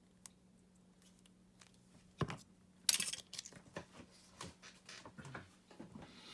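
Hands handling small parts and tools during a Makita cordless screwdriver battery pack repair: scattered light clicks and knocks, a sharper knock about two seconds in, then a short scraping rustle about three seconds in, over a faint steady hum.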